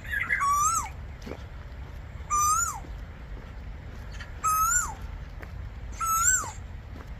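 A bird calling repeatedly: four short calls about two seconds apart, each a clear note that rises slightly and then drops sharply. Another bird twitters briefly at the very start.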